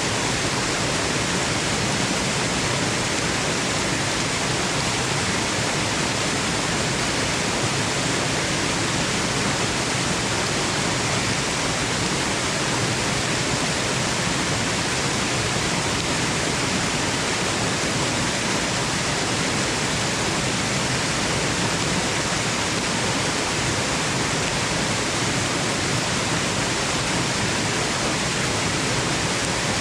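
Waterfall: water falling and splashing in a steady, unbroken rush with no separate splashes or changes.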